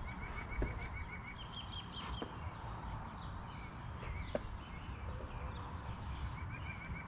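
Songbirds singing rapid series of short repeated chirps, about six a second, in the first two seconds and again near the end, over a low outdoor rumble. A few light knocks sound as the hive frames are handled.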